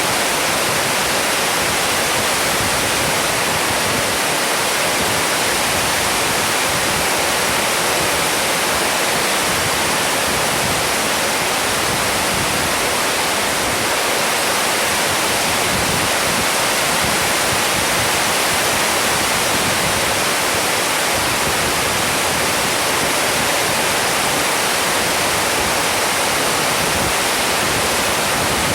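Heavy rain falling in a steady, even hiss during a storm.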